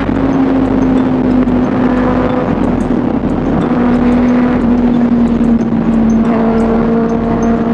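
Kawasaki ZX6R's 636 cc inline-four engine running at a steady high pitch at speed, the note easing down slightly, with heavy wind rush on the rider's microphone.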